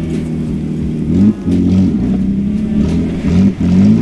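Off-road 4x4's engine running under load, revving up briefly about a second in and again near the end, easing off after each rise.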